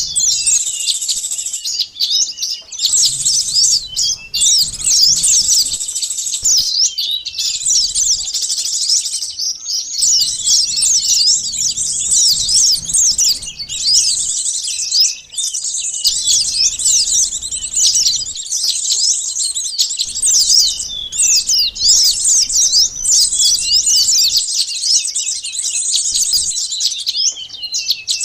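Bird-luring recording of a crowd of small songbirds, sunbirds among them, chirping and twittering all at once: a dense stream of high, rapid, overlapping calls with hardly a pause.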